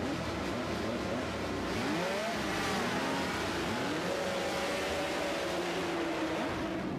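A pack of MotoGP racing motorcycles with their engines at high revs. Many engine notes overlap, rising and falling in pitch as the bikes accelerate and shift.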